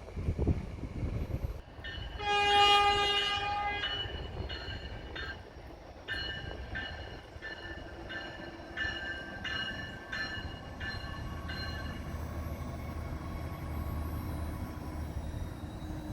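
A train horn sounds one blast of about two seconds, followed by a bell ringing about a dozen strikes, a little over one a second, over the low rumble of the train.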